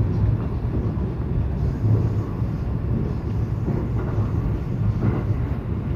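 Local electric train running at speed, a steady low rumble of wheels on track and running gear.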